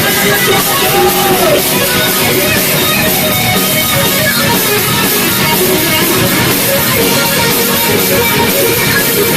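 Metal band playing live: loud, dense distorted electric guitar with drums, running without a break.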